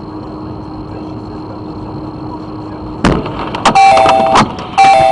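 Road noise inside a moving car, then a sudden sharp bang about three seconds in, which the driver takes for another car's wheel bursting. Two long car horn blasts follow.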